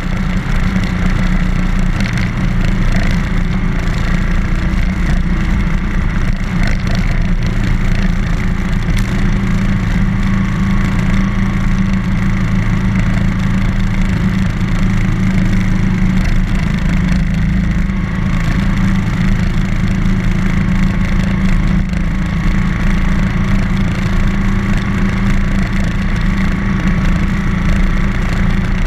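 BMW R1200GS boxer-twin motorcycle engine running steadily while riding, its note holding nearly constant in pitch, with a steady rush of road and wind noise.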